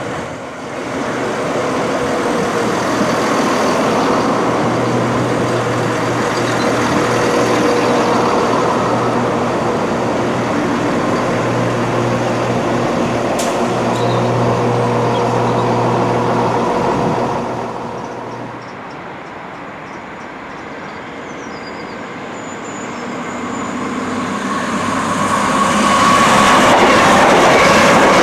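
A train running through: a steady rumble with a low hum that drops away about two-thirds of the way in, then a louder rush building over the last few seconds as a train comes close.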